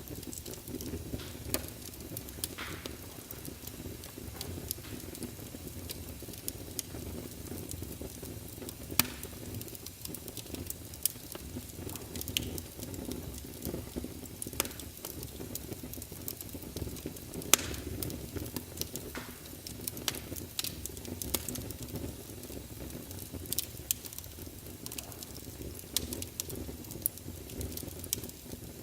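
Wood fire burning in a fireplace: a steady low rumble of flames with irregular sharp crackles and pops from the burning logs, one louder pop partway through.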